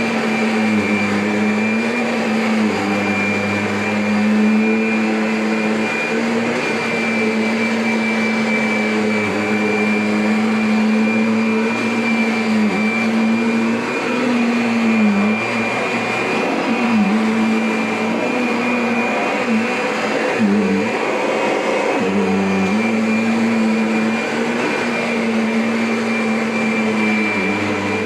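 Kirby upright vacuum cleaner running: a steady motor hum with a high whine above it, the motor pitch dipping briefly several times as it is worked.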